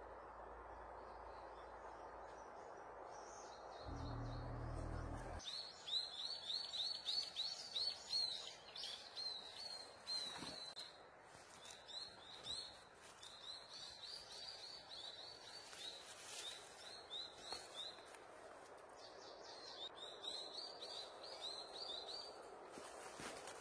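A bird singing in quick runs of short, high chirps, several to the second, with brief pauses between runs. Before the song starts, a low hum cuts off suddenly about five seconds in.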